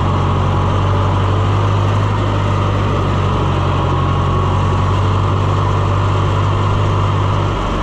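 Farm vehicle's engine running steadily under way, easing off slightly near the end.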